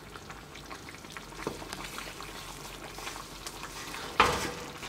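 Bulgur and tomato sauce sizzling in a metal pot on a gas burner, stirred with a wooden spoon, with small scraping clicks. About four seconds in there is a single much louder knock.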